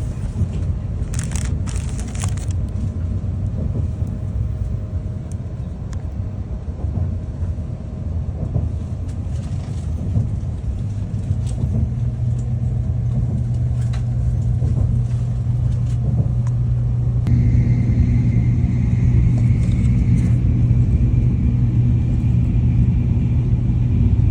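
Tokaido Shinkansen train in motion: a steady heavy rumble. A low hum sets in about halfway through, and a higher whine joins it a few seconds later.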